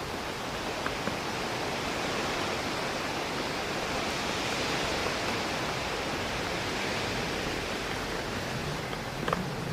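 Rain on a window pane mixed with wind through trees: a steady hiss that swells a little midway, with a few sharp raindrop taps, the loudest near the end.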